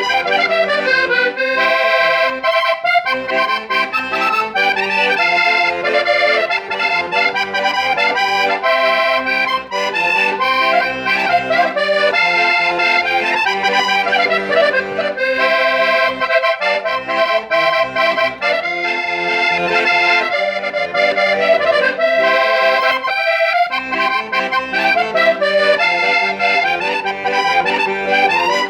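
Diatonic concertina (button accordion) in G/C/F, made by Recanati, playing a traditional Portuguese tune solo, with a melody over a steady bass-note drone.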